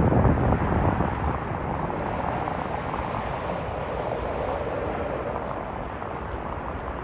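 Distant engine noise: a steady, even rumble that is loudest at the start and slowly fades.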